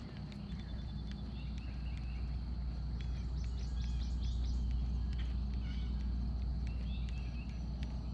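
Birds chirping in short repeated calls over a steady high insect buzz, with a low rumble underneath.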